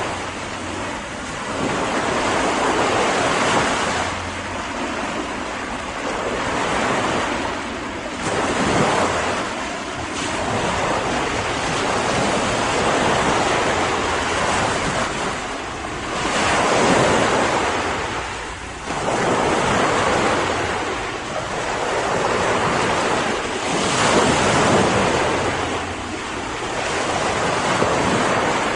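Ocean surf: waves breaking and washing in, the rush rising and falling about every three to five seconds.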